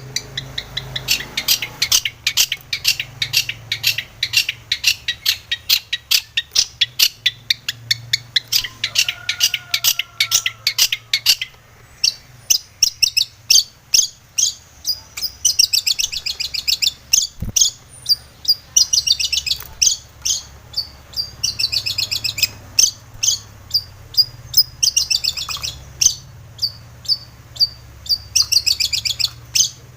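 Long-tailed shrike (cendet) singing: rapid strings of short, high notes, several a second, in phrases broken by brief pauses.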